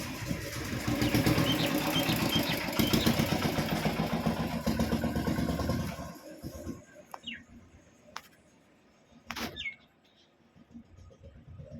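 A small engine running steadily, which cuts off about six seconds in. A few short faint bird chirps and clicks follow.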